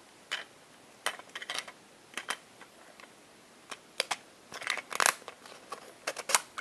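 A plastic toy egg being handled and opened by hand: scattered short plastic clicks and rattles, busiest in the second half.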